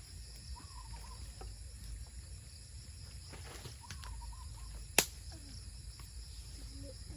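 Crickets and other night insects chirring steadily at a high pitch, with a single sharp click about five seconds in.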